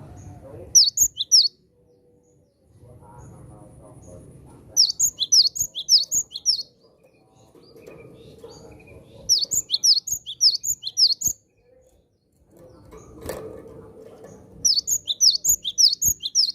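Cinereous tit (gelatik batu) singing: four quick bursts of sharp, high, repeated notes, each lasting one to two seconds, a few seconds apart.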